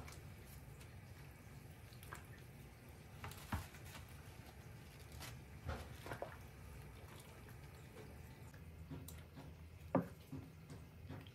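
Quiet handling sounds: a few soft, separate taps and knocks, the loudest about ten seconds in, over a low steady hum.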